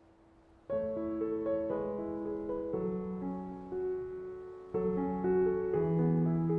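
Soft background piano music: after a faint fading note, a new phrase of piano notes starts suddenly just under a second in, with a second phrase entering about two thirds of the way through.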